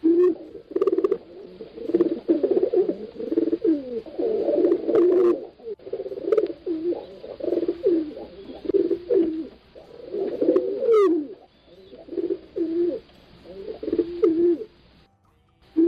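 Pigeons cooing: low, repeated coos from several birds overlapping one another. A brief higher rising sound comes about eleven seconds in.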